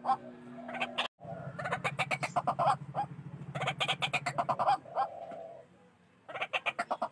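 White-breasted waterhen calling: fast runs of loud, harsh repeated notes, several a second, broken by short pauses and a quieter stretch about two thirds of the way through.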